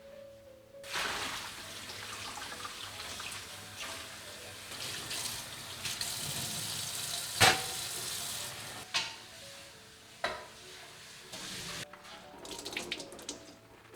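Water running from a kitchen tap into a sink for most of the stretch, with a few sharp knocks in the middle and near the end.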